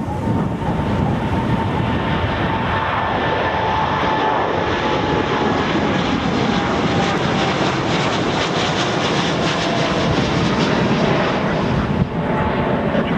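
Boeing 787 Dreamliner's twin jet engines at takeoff power as the airliner departs: a steady, loud rush of noise with a whining tone that slowly falls in pitch.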